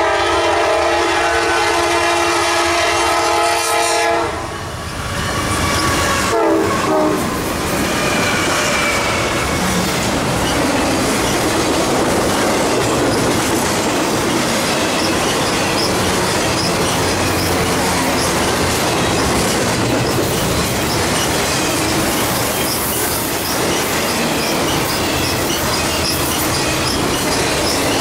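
Norfolk Southern freight locomotive's air horn sounding one long multi-note chord for about four seconds, then a short blast a couple of seconds later. After that, the intermodal train's cars roll past close by: a steady rumble and clatter of wheels over the rails, with faint high wheel squeals.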